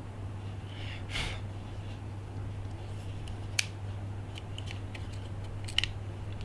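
Small sharp clicks and taps from handling small repair tools and iPhone parts, with a brief soft swish about a second in and the two loudest clicks a little past halfway and near the end. A steady low hum runs underneath.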